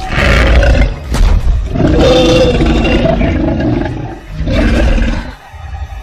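Dinosaur roar sound effect: loud, rough roars in three pushes, the long middle one lasting about three seconds, fading out about five seconds in.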